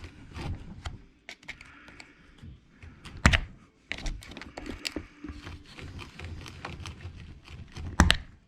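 Long nose pliers clicking and tapping against small metal pins and the plastic differential housing of an E-Revo 2.0 RC truck, with two sharper knocks, one about three seconds in and one near the end.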